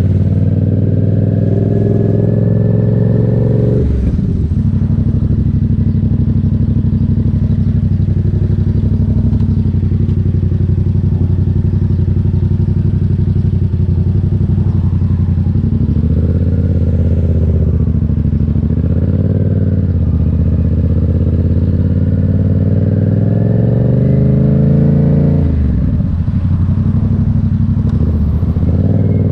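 Motorcycle engine on the move, its pitch climbing as it accelerates, dropping sharply about four seconds in, running steadily, then climbing again and dropping sharply near the end.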